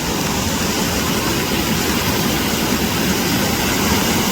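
Steady rush of heavy sea surf breaking on the shore, with strong wind buffeting the microphone.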